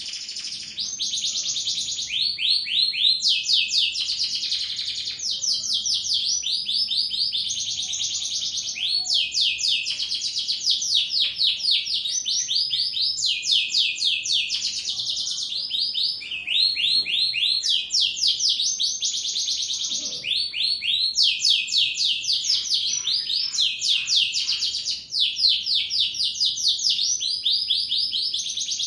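Domestic canary singing nonstop in full song: long runs of fast, high rolling trills that switch to a new phrase every second or two with hardly a pause.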